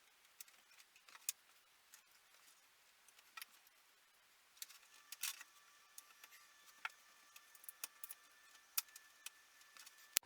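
Faint, scattered light clicks and rattles of sectional 00 gauge model railway track being handled and fitted together, busier in the second half.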